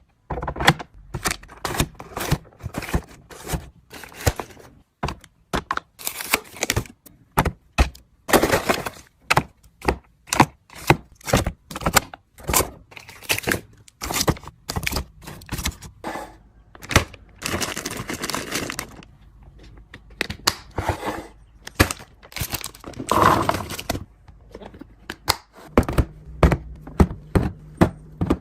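A quick, irregular run of clicks, taps and knocks from plastic containers, lids and food packages being handled and set down while a fridge is restocked, with a brief rustle of packaging about two-thirds of the way through.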